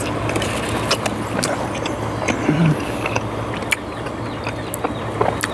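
A person chewing, with scattered short mouth clicks, over a steady low hum and background noise.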